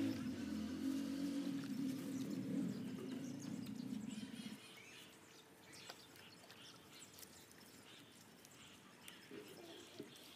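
Birds chirping faintly outdoors. A low, steady hum underneath stops abruptly about four and a half seconds in.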